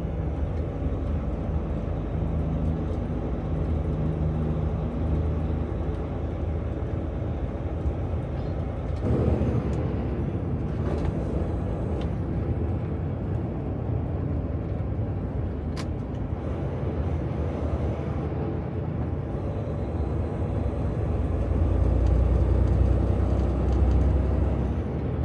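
Semi truck's diesel engine running with road noise, heard from inside the cab while driving in traffic. The engine note changes about nine seconds in, and a louder low rumble builds near the end.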